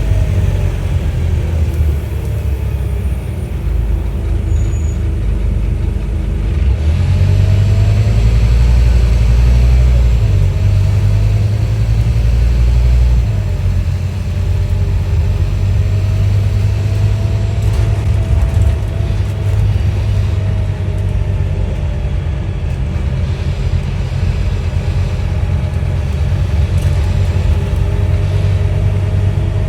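Scania N230UD OmniDekka double-decker bus's five-cylinder diesel engine running as the bus drives: a deep rumble that grows louder for several seconds about a quarter of the way in, then settles, with a faint whine slowly rising and falling in pitch.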